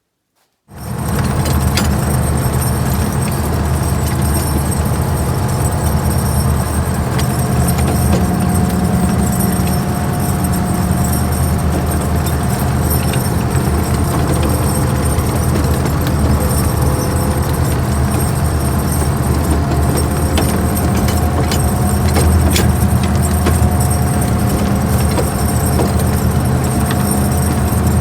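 An engine idling steadily, with light metallic clinks over it; the sound starts abruptly under a second in.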